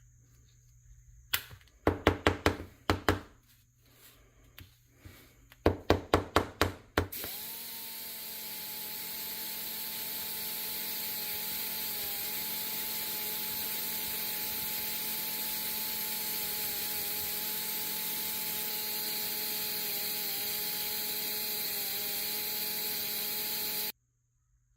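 Two quick runs of sharp knocks, each of about half a dozen strikes, then a power tool starts and runs steadily for about sixteen seconds before cutting off abruptly.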